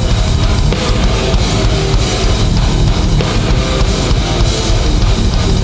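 Hardcore band playing live through a PA: drum kit and distorted electric guitars and bass in a steady, loud instrumental passage between vocal lines.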